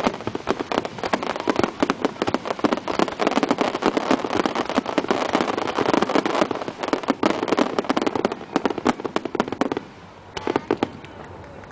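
Fireworks display: a dense, continuous run of rapid crackling pops and bangs, which thins to a few scattered pops about ten seconds in.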